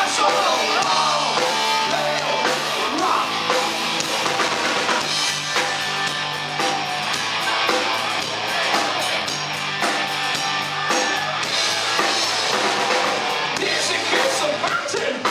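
Live rock band playing, with a drum kit and electric guitars going steadily.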